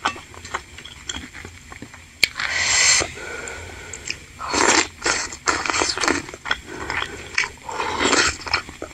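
Close-miked eating sounds: biting and chewing a fried bakso aci (tapioca dumpling) in spicy broth, with many wet mouth clicks and smacks and a few louder wet sucking sounds.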